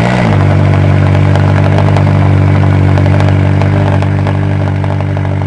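McLaren 570-series 3.8-litre twin-turbocharged V8 just after a cold start, running at a steady, loud fast idle; the idle eases down slightly toward the end.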